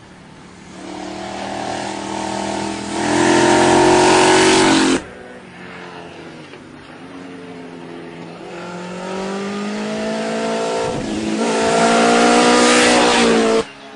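Vintage racing motorcycle engines accelerating hard, two in turn. Each one builds up loud, climbing in pitch, then cuts off suddenly, the first about five seconds in and the second near the end.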